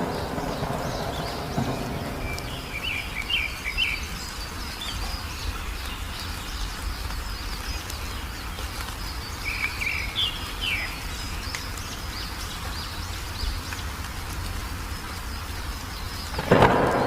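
Wild songbird calls in two short bursts of quick twittering chirps, over a faint steady high insect-like hum and a low rumble. A loud crack of thunder breaks in near the end.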